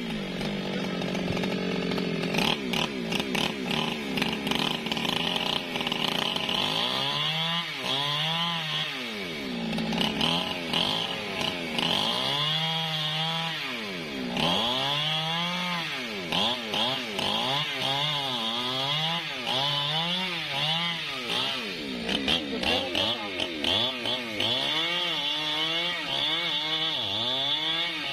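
Newwest 628 two-stroke gasoline chainsaw running steadily at first, then revved up and down over and over, about once a second, while cutting angsana wood.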